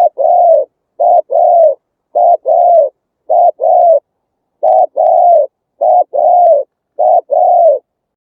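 Spotted dove cooing: seven pairs of notes about a second apart, each a short coo followed by a longer, slightly arched one. The calls stop near the end.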